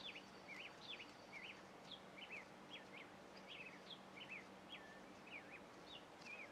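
Faint chirping of a small bird: a string of short, quick notes, about two or three a second, over a low steady hum.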